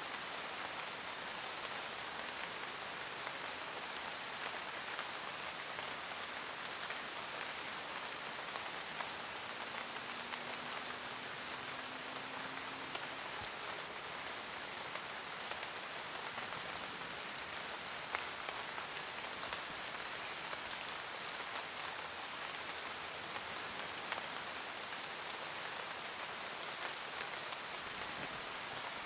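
Steady rain falling in a forest, an even patter of drops with scattered individual drips.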